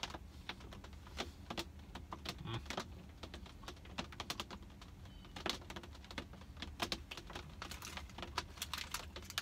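Close-up chewing of a sticky pecan-covered nougat candy: irregular wet mouth clicks and smacks with small crunches, over a steady low hum.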